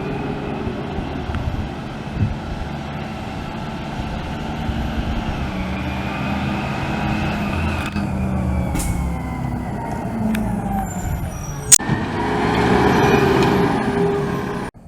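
Garbage truck's engine running with its brakes squealing: thin high-pitched tones slide slowly downward over the rumble. A sharp click comes about twelve seconds in, followed by a louder rush of noise that cuts off at the end.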